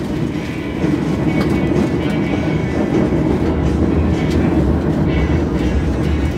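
Argo Lawu passenger train heard from inside the coach while running on the rails: a steady low rumble of the wheels on the track with occasional clicks.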